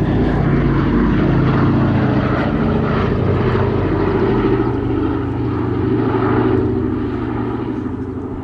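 Piston engines of a warbird flying past, a loud, steady propeller drone that fades away over the last couple of seconds.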